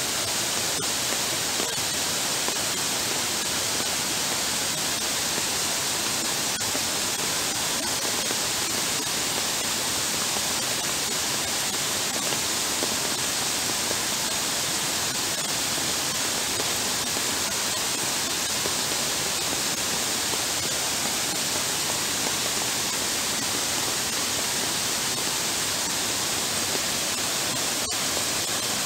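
Heavy downpour: a steady, unbroken hiss of rain pouring onto a flooded paved path and the water running over it.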